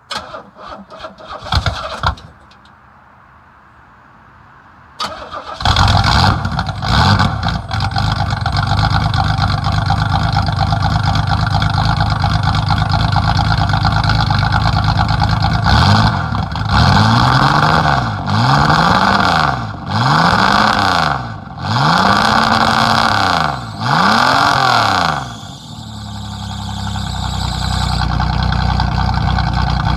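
A few clicks, then the 1986 Pontiac Fiero's 2.8 L V6 cranks and starts about five seconds in, running through a newly built exhaust with a Thrush muffler. It settles to a steady idle, is blipped five times in quick succession from about the middle, then drops back to idle.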